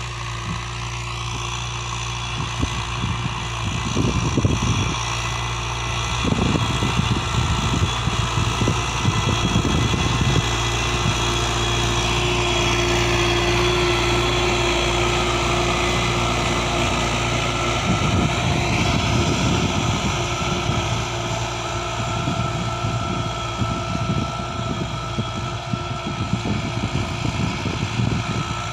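90 hp tractor's diesel engine running steadily under uneven clattering. Its pitch drops about twelve seconds in and rises again around eighteen seconds in.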